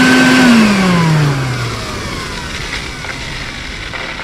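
Small shop vacuum's motor running, then switched off about half a second in: its whine falls steadily and winds down over about a second and a half, with the air rush fading after it. The motor bearing has just been oiled to cure a squeal on spin-down, and none is heard.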